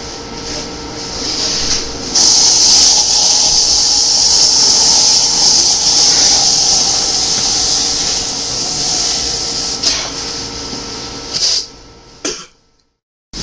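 Loud steady hiss of rushing air, starting about two seconds in and cutting off near the end, with a brief total silence just before the end.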